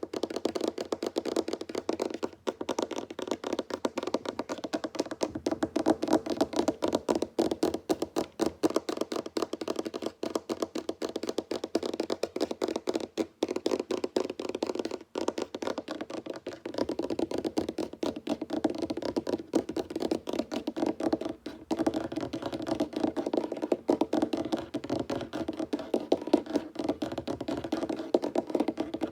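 Fingertips and nails tapping fast on a wooden tabletop, a dense patter of quick taps with the odd brief pause.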